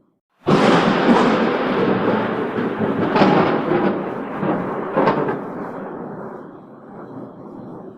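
Thunder: a sudden loud crack about half a second in, then a long rolling rumble with two sharper cracks around three and five seconds, slowly dying away.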